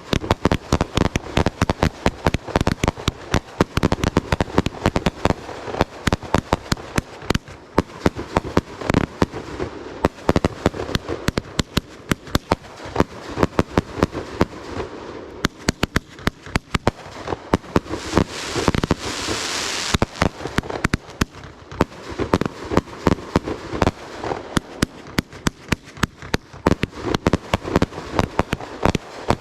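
Fireworks show: a rapid, continuous barrage of bangs and crackles. About eighteen to twenty seconds in, a loud hiss runs for a couple of seconds among the bangs.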